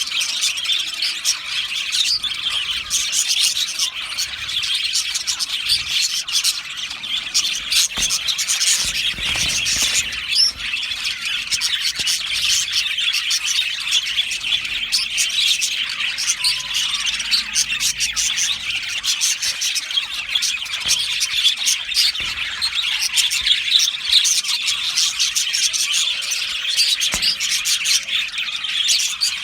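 A colony of budgerigars chirping and chattering together, a dense, continuous mass of overlapping high chirps and squeaks.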